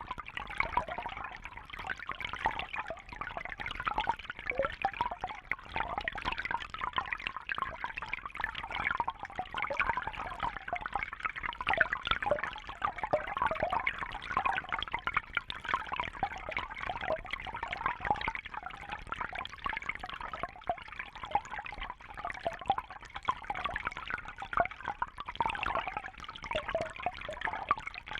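Continuous trickling, bubbling water, a busy patter of small splashes and gurgles with no pauses.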